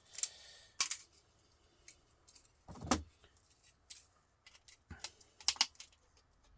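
Scattered sharp clicks and clinks of small metal laptop parts and hand tools being handled, with a duller knock about three seconds in and a quick cluster of clicks near the end.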